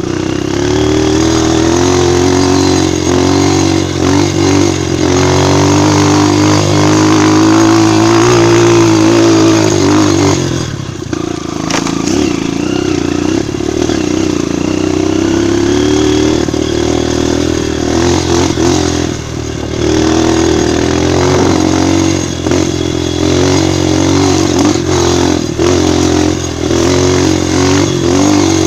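Single-cylinder four-stroke trail motorcycle engine running under throttle, its pitch rising and falling as the rider works the throttle, with a brief let-off about ten seconds in.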